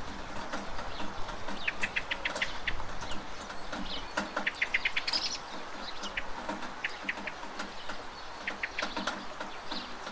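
Steady rain with drops dripping and splashing from a gutter, while a bird calls several times in quick runs of short, high chirps.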